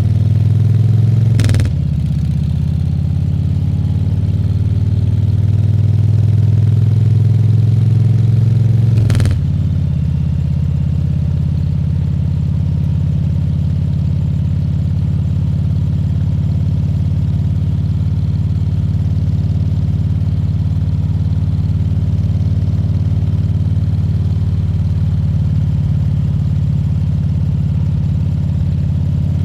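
Harley-Davidson Fat Bob 114's Milwaukee-Eight 114 V-twin running under way. It pulls up slowly in pitch through one gear, with a brief break about a second and a half in and another about nine seconds in as it shifts, then runs at a steady, lower pitch.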